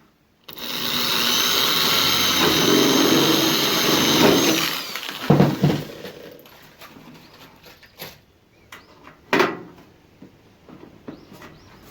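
A handheld electric power tool runs for about four and a half seconds with a steady high whine, then winds down. A few knocks and clicks follow, with one sharp click near the end.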